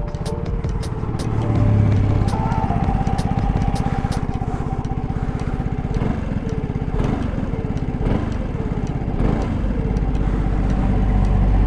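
Vespa S125 scooter's single-cylinder four-stroke engine running, its note rising and falling with the throttle. It has a newly fitted Malossi CVT set, which makes it sound a little different.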